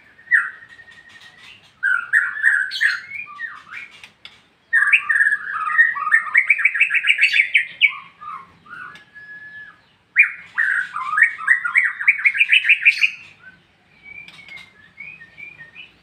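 White-rumped shama singing in the clear, loud 'ngeplong' style: rapid trilled runs of notes that rise in pitch, with a few high whistles, delivered in four phrases of one to three seconds separated by short pauses.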